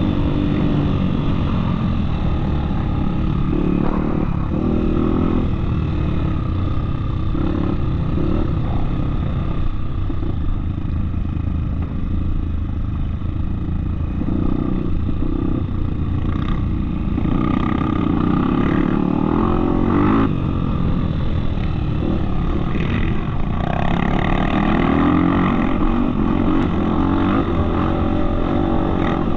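Off-road motorcycle engine running continuously while riding a trail, its pitch rising and falling with the throttle over a constant low rumble.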